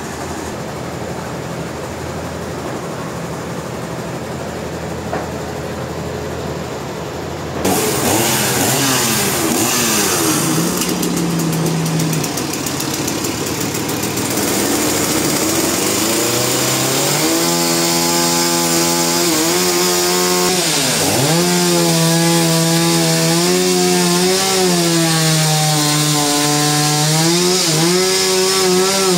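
A sawmill's engine-driven saw running steadily, then about eight seconds in it starts cutting into a log with a sudden loud hissing cut. Later the engine note wavers and dips sharply once, about two-thirds of the way through, as the cut goes on.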